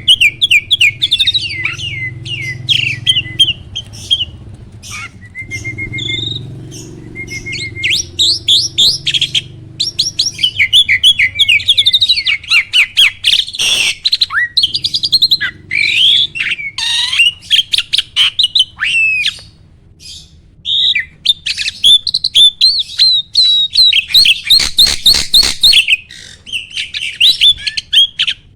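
Jalak (starling) singing a long, varied song of rapid chattering notes, clicks and short whistles, with hardly a pause.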